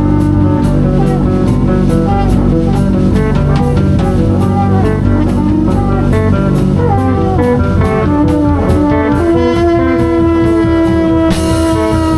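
A live band improvising in a jazzy style: drum kit keeping a steady beat under guitar and melodic lines, with one note held for a few seconds near the end.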